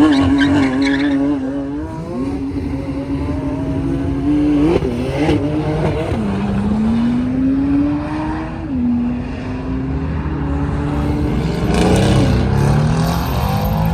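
Sports car engine running hard, its note rising and falling several times: a long climb in pitch about halfway through, then a sharp drop as at a gear change, over a constant roar.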